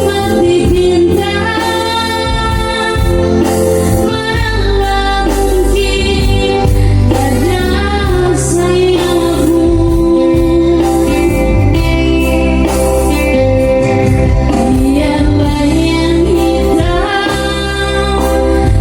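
A solo singer performing a song over instrumental backing, with a bass line that moves in held notes.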